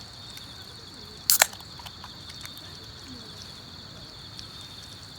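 A sharp double click about a second in, over a steady high chirring of insects.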